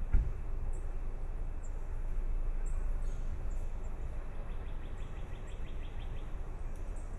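Faint, very short high-pitched bird chirps scattered over a steady low rumble, with a quick trill of rapid ticks about two-thirds of the way through. A single thump just after the start is the loudest sound.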